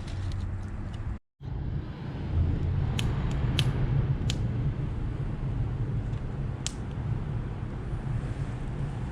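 Campfire burning: a steady low rumble with a few sharp crackling pops, one after another in the middle and one more later. The sound drops out completely for a moment about a second in.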